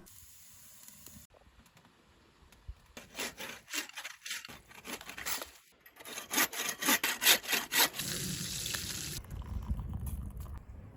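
Hand saw cutting through wood in rhythmic back-and-forth strokes, starting a few seconds in and growing louder and quicker, about two strokes a second near the middle, then settling into a steadier rasp.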